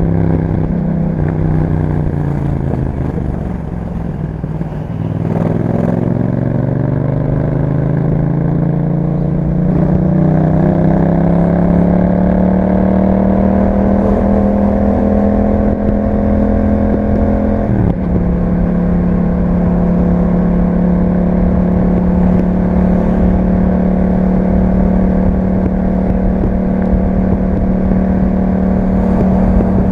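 2021 Yamaha MT-07's parallel-twin engine through an Akrapovic exhaust, under way. The revs fall for the first few seconds, then climb steadily under acceleration, break briefly at a gear change about two thirds of the way through, and then hold a steady pitch at constant speed.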